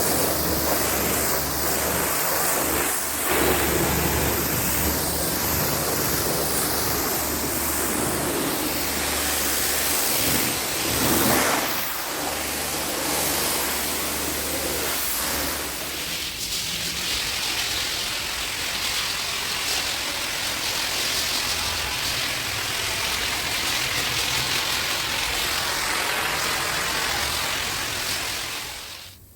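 Pressure washer running with its motor humming, the water spray hissing steadily against the car; the hum drops away about halfway through and the spray stops just before the end.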